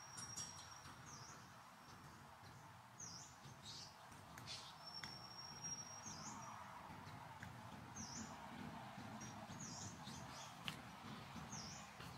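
Faint forest ambience with a songbird giving short, high chirps every second or two, twice holding a thin high whistle for about a second. A few soft sharp clicks come through.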